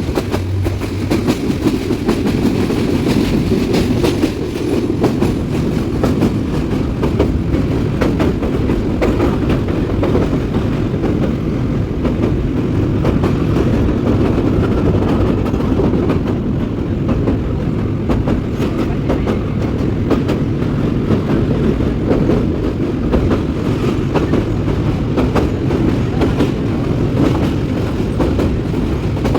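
A train running steadily, with a constant low rumble and the repeated clatter of its wheels over the rails.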